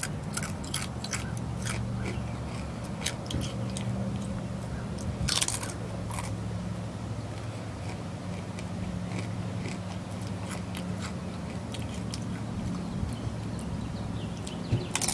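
Crunching and chewing tortilla chips (Doritos Jacked Ranch Dipped Hot Wings): crisp crunches come thickly in the first few seconds with a louder one about five seconds in, then the chewing goes quieter and sparser.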